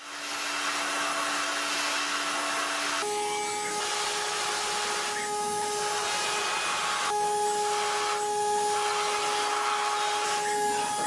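CNC milling machine cutting: a steady hiss of cutting, with a spindle whine that steps up in pitch about three seconds in and shifts again near seven seconds. The hiss thins briefly every couple of seconds as the tool moves between passes.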